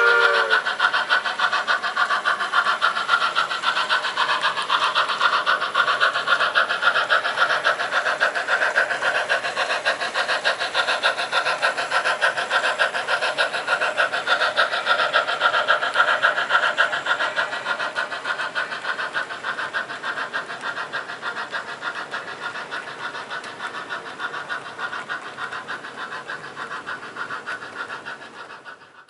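HO scale model steam locomotive's sound system: a steam whistle ends about half a second in, then rapid, even chuffing runs on and fades away over the last ten seconds or so.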